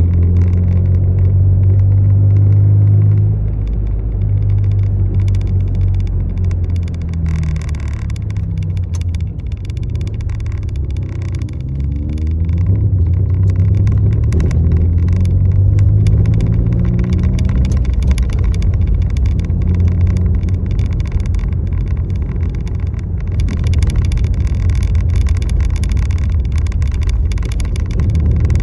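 Motor vehicle engine running while driving, a low rumble whose pitch rises and falls with speed.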